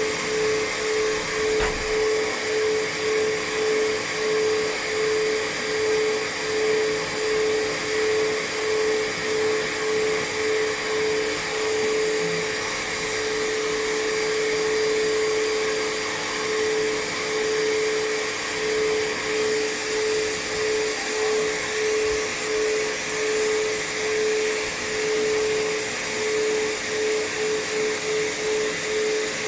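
Pet blow dryer running continuously, an airy rush with a steady whine whose loudness swells and fades about once a second as the airflow is swept back and forth, held steady for a few seconds midway.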